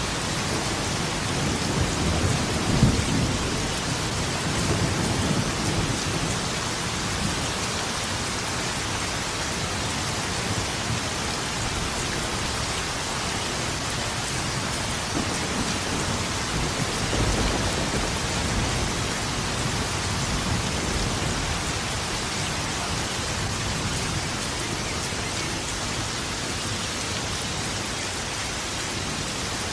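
Steady rain falling, with thunder rumbling low underneath; the thunder swells about two to five seconds in and again around the middle.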